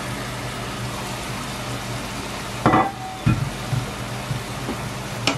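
Diced chicken sizzling steadily as it fries in a stainless steel sauté pan. A bit under three seconds in there is a sharp clink with a short ring, then a low knock, as the glass lid comes off the pan.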